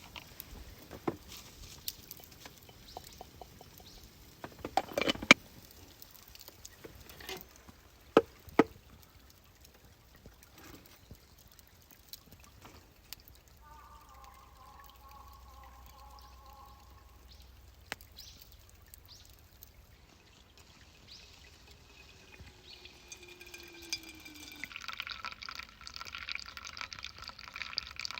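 Scattered sharp knocks and clicks, then near the end liquid is poured into a container with a hissing splash whose pitch rises as it fills.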